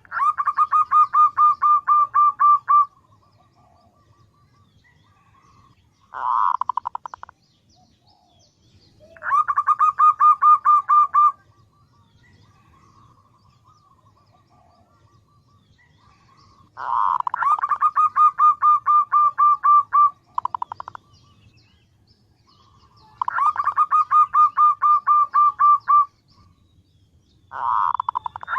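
Female zebra dove (perkutut) calling: runs of rapid staccato cooing notes, each run lasting one to three seconds, repeated about seven times with short pauses. This is a female call played as a lure to draw in males.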